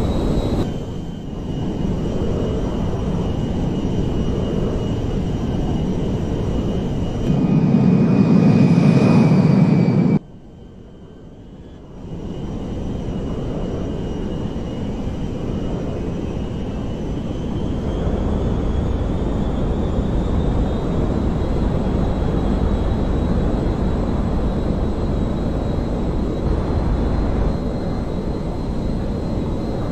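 Large airliner engines running, a steady noisy drone with a thin whine over it, in several cut-together clips. There is a louder stretch about a third of the way in, a sudden drop to a quieter passage, then a long steady run in which the whine slowly rises in pitch.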